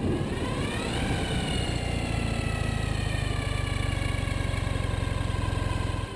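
2012 Ural Gear-Up sidecar motorcycle's flat-twin engine running on the road: its pitch rises for about a second, then slowly falls. The sound cuts off suddenly near the end.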